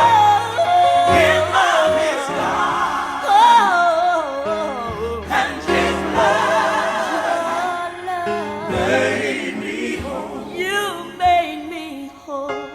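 Gospel singing: a voice singing long, bending melismatic runs over held chords from a keyboard accompaniment.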